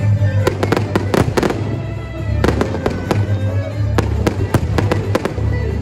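Fireworks bursting overhead in quick clusters of sharp bangs and crackles, with music with a heavy bass playing underneath.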